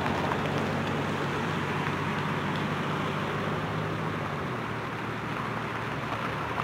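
Distant diesel locomotive approaching, heard as a steady low engine hum over a soft rushing noise; the hum drops to a lower note about four and a half seconds in.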